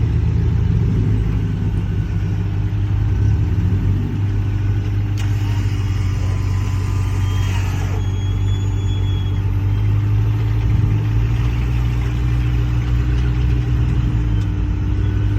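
Rock crawler engine running steadily at a low, even rumble.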